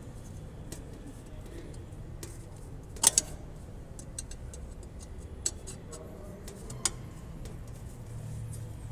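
Scattered sharp clicks and ticks of hose reel drum parts being handled and fitted together, with a loud double click about three seconds in and two more single clicks later.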